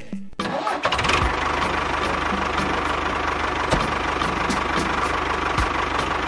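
Small motor of a DIY mini tractor running steadily, with a fast, even beat that starts about half a second in.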